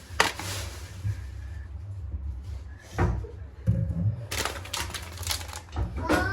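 A few sharp knocks and clicks of household handling, like a cupboard or door, over a low steady hum, with a busier run of clatter in the second half.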